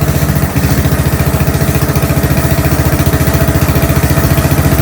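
Gravely tractor engine idling steadily with an even firing beat, running smoothly ("purring") just after a freezing cold start helped with a shot of ether.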